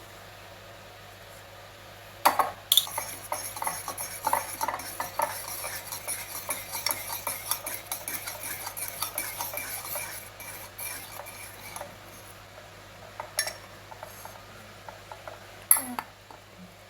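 Cutlery stirring mug-cake batter in a mug: a quick run of clinks and scrapes lasting about nine seconds, with a couple of sharp knocks just before it and a few more after it stops.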